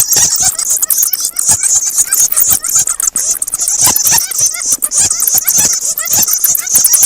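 Bats squeaking and chattering: a dense, unbroken stream of rapid high chirps, short squeals and clicks.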